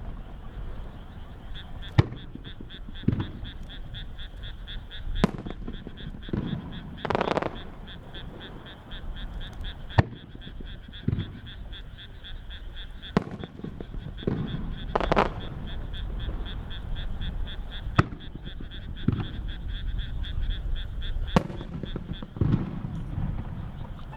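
Aerial fireworks shells bursting one at a time every few seconds, each a sharp crack, with deeper booms in between. A fast, steady, high-pitched pulsing chirp runs underneath.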